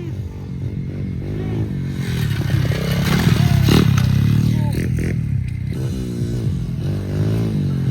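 Pit bike engine revving up and down, its pitch rising and falling repeatedly, with a sharp clatter a little under four seconds in.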